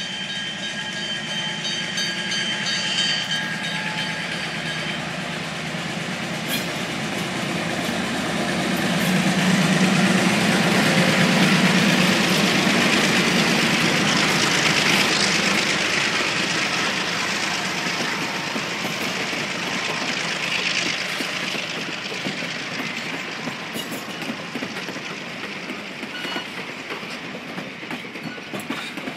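Napa Valley Wine Train's diesel locomotive approaching and passing at low speed, its engine loudest about ten seconds in. The passenger cars then roll by with their wheels clacking over the rail joints.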